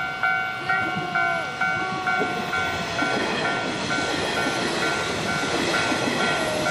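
Nishitetsu electric commuter train rolling past at close range, its wheels and running gear growing louder from about two seconds in. A level-crossing warning bell rings steadily about twice a second; it is the loudest sound at first and then sinks under the train noise.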